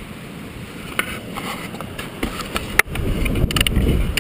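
Wind rumbling on the microphone, heavier in the second half, with a few sharp clicks and a louder knock about two-thirds of the way in.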